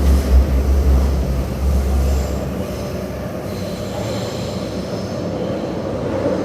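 Taipei Metro train running on the Zhonghe–Xinlu line. A heavy low rumble drops away about two seconds in, leaving steady running noise with a faint high wheel squeal.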